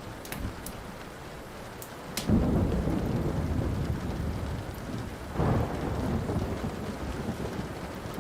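Thunder rumbling over steady rain, swelling a couple of seconds in and rolling on with a second surge about halfway through. A few sharp pops of burning wood from a fireplace crackle early on.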